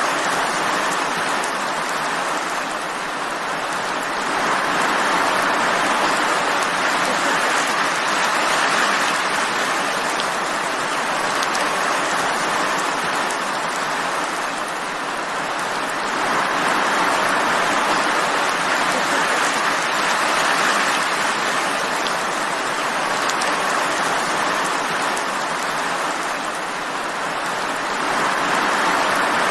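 Steady rain falling, an even hiss of many drops that slowly swells and eases every ten seconds or so.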